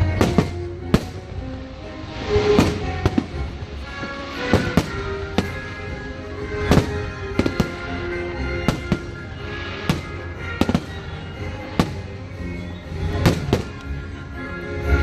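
Aerial fireworks exploding in a steady, irregular run of sharp bangs, about one a second, with music playing underneath.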